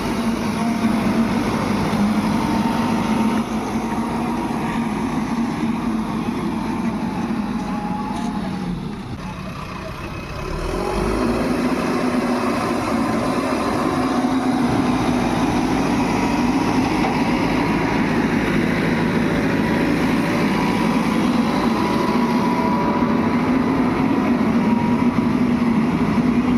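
Heavy diesel machinery engines running steadily. The sound eases off briefly about ten seconds in, then picks up and runs louder again.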